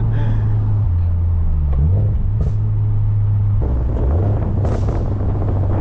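Toyota 86 flat-four engine through an aftermarket cat-back exhaust, heard while driving: a steady exhaust drone that drops in pitch and comes back up a few times as the revs change with gear shifts.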